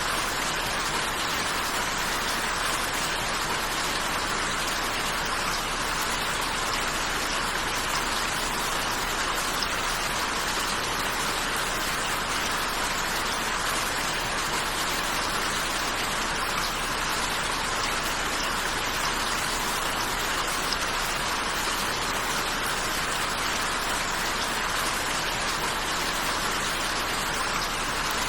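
Steady rain falling, an even hiss of countless drops that does not change.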